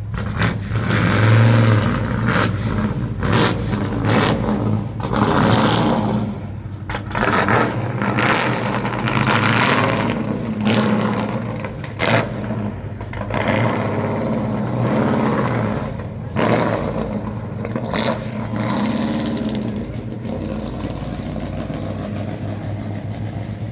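A car engine running with steady low idle, revved repeatedly: the engine note swells up and drops back about every two to four seconds.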